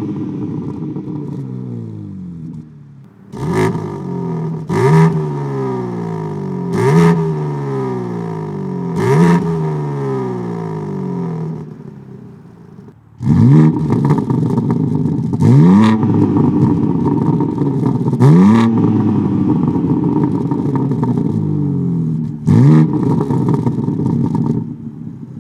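BMW M3 G82's twin-turbo S58 inline-six, fitted with Fabspeed sport cat downpipes, revved hard eight times in two sets of four, each rev climbing quickly and falling away slowly with a sharp crack at the peak.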